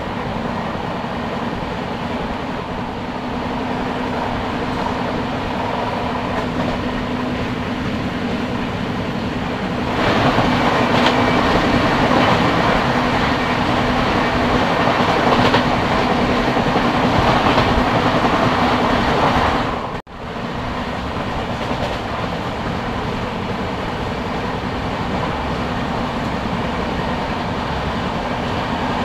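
Express train heard from an open coach door at speed: steady wheel-on-rail rumble with clickety-clack over the rail joints. About ten seconds in it grows louder as a passenger train passes close on the next track, then drops back after a sudden brief gap about ten seconds later.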